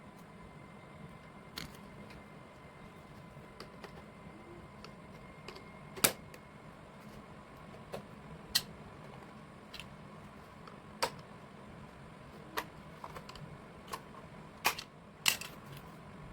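Small parts being handled during a repair: about nine light, sharp clicks and taps at irregular intervals, the loudest about six seconds in and several close together near the end, over a faint steady hum.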